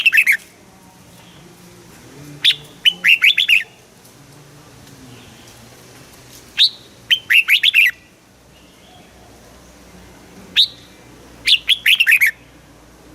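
Red-whiskered bulbul singing short, bright phrases. Each phrase is a sharp note followed by a quick run of falling notes, repeated about every four seconds.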